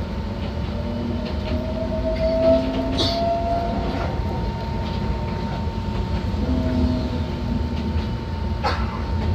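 Enoshima Electric Railway (Enoden) train running along the line, heard from the cab: a steady rumble from wheels and rails, with the motor's whine rising in pitch as it pulls. There is a sharp clack about three seconds in and another near the end.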